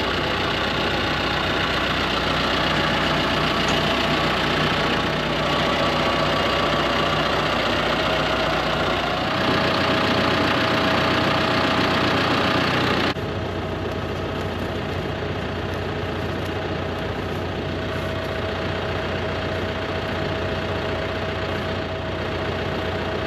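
Farm tractor's engine running steadily at idle. Its tone shifts about nine seconds in, and its level drops suddenly about thirteen seconds in.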